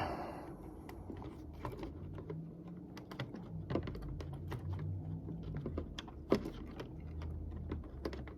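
Small irregular plastic clicks and taps of HO-scale model train cars being handled and fitted onto the track by hand, with one sharper click about six seconds in.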